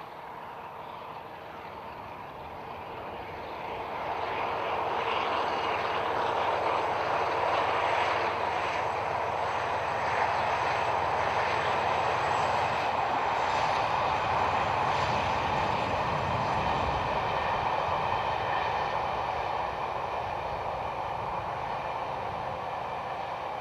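Class 47 diesel locomotive's Sulzer twelve-cylinder engine working under power as the train passes, swelling about four seconds in, holding loud, then easing a little near the end.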